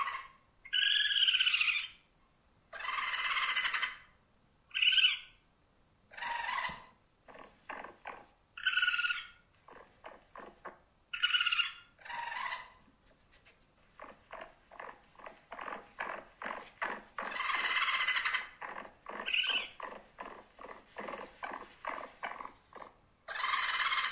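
A small pet rodent squeaking and squealing in short separate calls, some about a second long with a curving pitch. Between them come runs of rapid chattering clicks.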